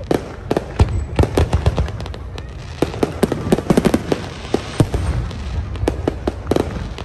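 Aerial fireworks bursting and crackling in quick, irregular succession, the pops densest about halfway through.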